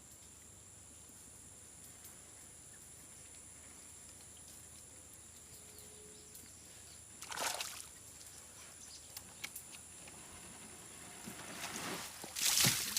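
Water splashing and sloshing: one short splash about halfway through, then a longer, louder run of splashing near the end, over a faint steady hiss.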